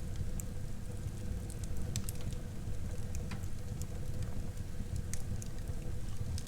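Wood fire burning in a fireplace: a steady low rumble of flame with scattered sharp crackles and pops of burning wood.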